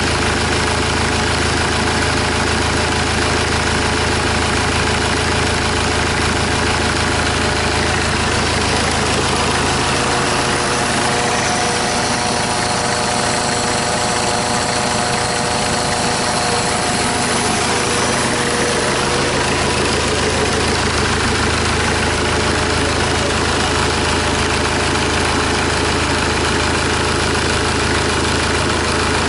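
Hyundai D4CB 2.5-litre four-cylinder diesel running on a test stand outside the vehicle, idling steadily during an oil-pressure check. Its tone shifts for several seconds around the middle.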